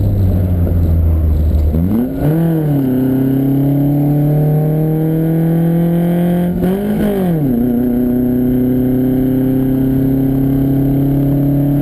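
Lancia Fulvia Rally S prototype's V4 engine pulling under load, heard from on board, its revs climbing slowly. About 2 s and again about 7 s in, a gear change, each with a brief rise and fall in revs before the engine settles and pulls again.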